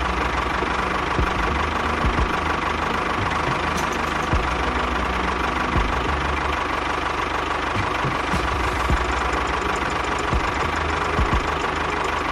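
Small electric motor of a miniature model machine running steadily with a constant whine, with a light knock every second or two.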